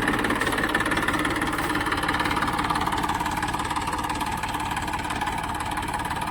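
Tractor engine running steadily at low revs, an even pulsing engine note.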